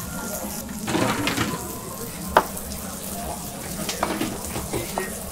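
Food sizzling in a cooking pan or dish, with a few sharp clinks and knocks, the loudest about two and a half seconds in.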